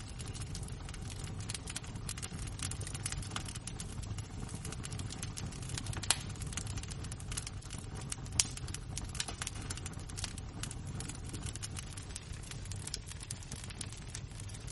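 Wood embers crackling: a steady stream of small, sharp crackles and ticks over a low rumble, with two louder pops about six and eight seconds in.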